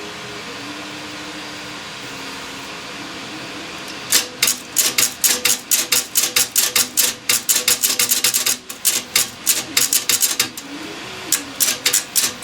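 Antique cash register's internal mechanism being turned by hand, its gears and ratchets clicking rapidly, several clicks a second, starting about four seconds in, pausing briefly and then resuming. The mechanism still works but is stiff to turn.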